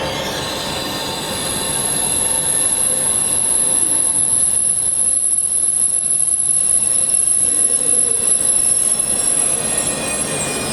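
Train wheels squealing on the rails: a very high, steady whine that sets in about a second and a half in and holds until near the end, over the rumble of the moving train.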